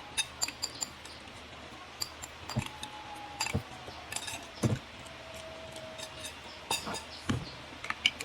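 Irregular light clinks and taps of cutlery against dishware, with a few duller knocks in between.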